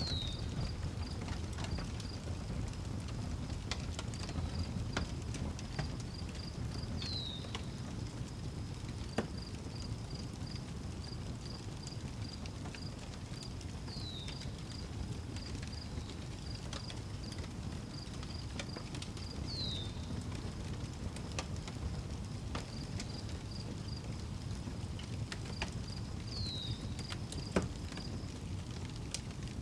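Outdoor wood fire crackling with scattered sharp pops over a low steady rumble, while crickets chirp in a steady high pulsing trill. A bird repeats a short falling whistle five times, about every six to seven seconds.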